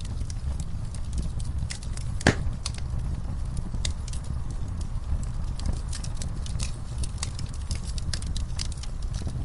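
Campfire burning: a steady low rumble of flames with irregular crackles and pops of burning wood, the loudest pop about two seconds in.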